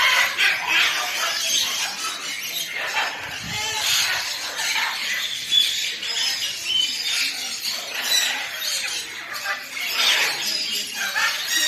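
Birds calling: a busy stream of short, high, overlapping calls and chirps.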